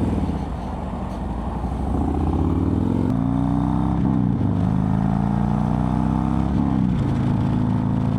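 Harley-Davidson V-twin motorcycle engine under way, accelerating through the gears: the pitch climbs, drops sharply at upshifts about three, four and seven seconds in, then holds steady at cruising speed, with wind rush underneath.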